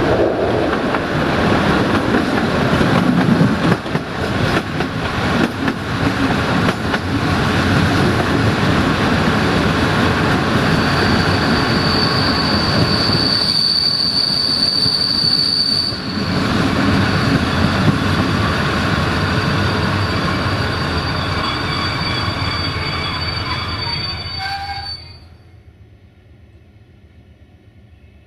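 Passenger train coach rolling and rattling on the track, with a high steady squeal from the running gear for several seconds as it slows. Squealing tones rise again as the train comes to a stop about 25 s in, after which only a quiet hum remains.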